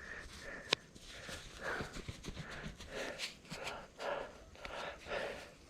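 A mountain biker's heavy breathing, a run of puffs every half second or so, with a sharp click about a second in and lighter ticks and rattles from the bike on the trail.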